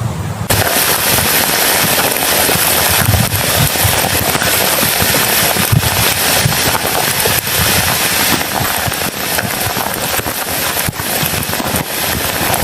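Heavy rain pelting a tent, a dense, loud crackle of drops that starts abruptly about half a second in, after a low hum cuts off.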